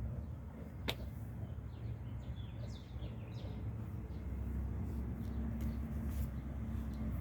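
Kia truck's engine idling with a steady low hum, with a sharp click about a second in and a few short bird chirps around the middle.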